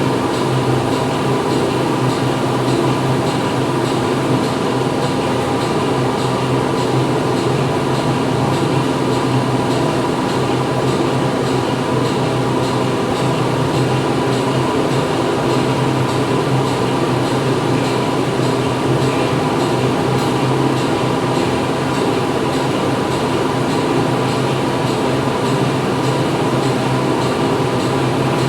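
Factory machinery running inside a production hall: a loud, steady industrial din of humming motors and mechanical noise, with several constant tones and no distinct strokes or events.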